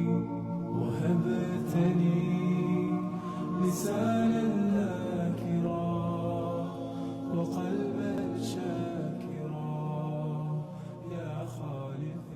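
Background music: an a cappella vocal chant with long held notes.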